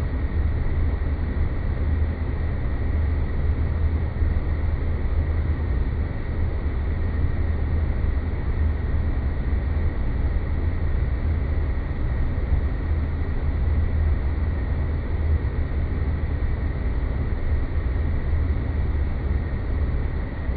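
Sci-fi space-planet ambience: a steady, deep rumbling drone with a faint thin high tone held over it, unchanging throughout.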